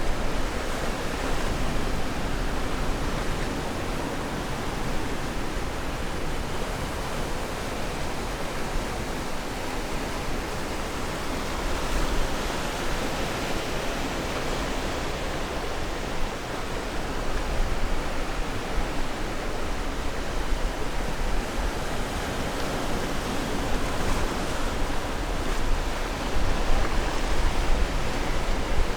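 Atlantic surf washing onto the shore: a steady rush of waves that swells a little now and then, with a deep rumble underneath.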